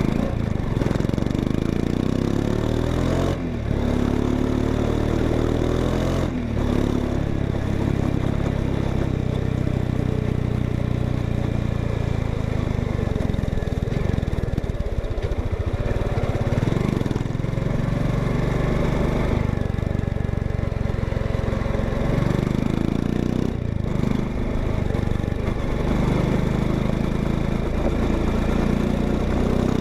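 Exhaust note of a 2025 Honda XRE 190's single-cylinder engine, running and revving up several times, the pitch rising with each rev, with a few brief breaks between.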